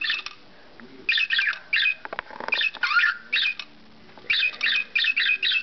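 Budgerigar giving bunches of sharp, high chirps and squawks again and again, an agitated scolding call aimed at a toy bird.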